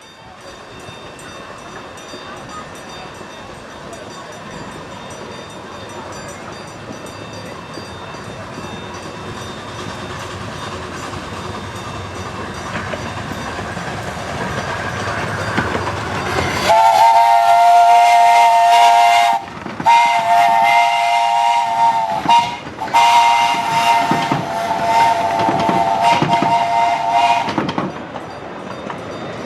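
Grand scale steam locomotive's chime whistle blowing three blasts, the middle one shortest, over the running noise of the train, which grows steadily louder as it approaches.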